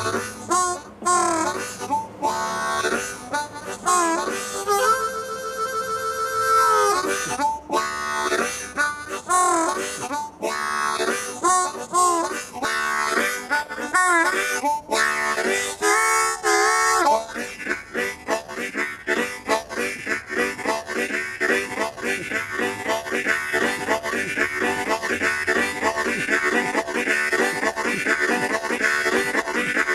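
Blues harmonica improvising a train journey: wailing bent notes and a long held chord, then, from about halfway through, a fast, steady chugging rhythm in imitation of a train on the move.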